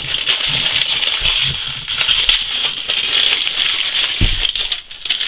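Plastic blister packaging of a toy car crinkling and rustling steadily as it is handled and torn open, with small clicks and knocks among it.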